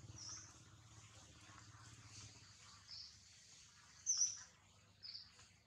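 Birds chirping faintly: a few short, high chirps spread apart, the loudest about four seconds in, over a low hum that fades out about halfway.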